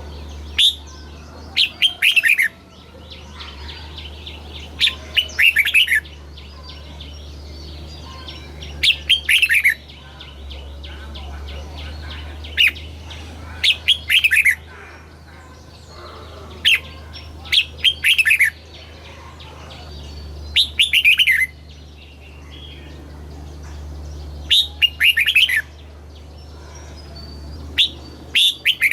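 Red-whiskered bulbul singing: short, loud phrases of a few quick falling whistled notes, repeated about every four seconds.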